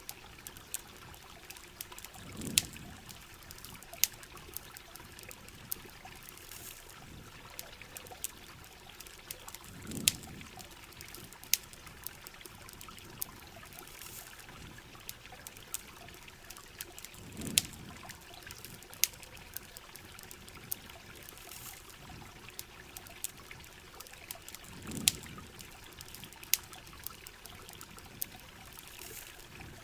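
Steady rain with water trickling, over a campfire crackling in scattered sharp pops. A soft low swell rises and fades about every seven to eight seconds.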